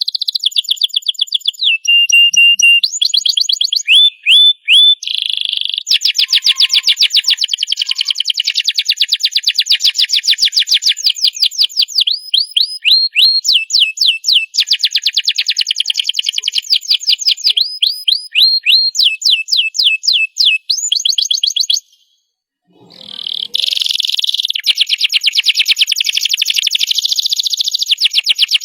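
Domestic canary singing a long, continuous song of fast trills and rolls mixed with repeated sweeping whistled notes. The song drops out for about a second near the 22-second mark, then another rapid trill starts up.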